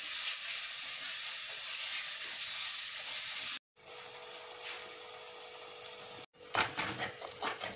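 Chopped onion and tomato frying in oil in a clay pot, a steady high sizzle as a wooden spoon stirs it. The sound cuts out briefly twice; between the cuts the sizzle is quieter, and near the end a spoon knocks and scrapes against the pot.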